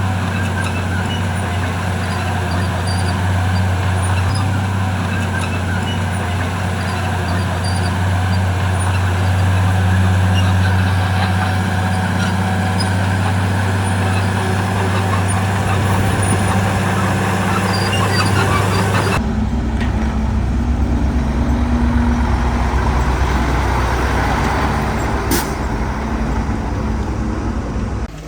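Diesel engines of heavy earthmoving machinery running steadily. About two-thirds of the way through, the sound changes abruptly to a different, deeper engine note, and there is one sharp click near the end.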